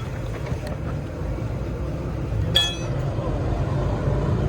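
Steady low rumble of background noise, with one sharp metallic clink that rings briefly about two and a half seconds in.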